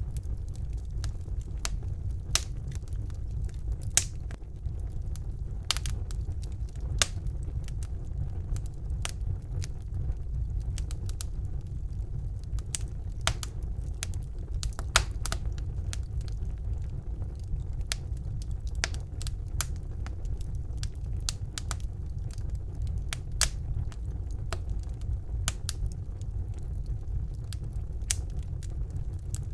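Fireplace fire burning: a steady low rumble from the flames, with frequent irregular sharp crackles and a few louder pops.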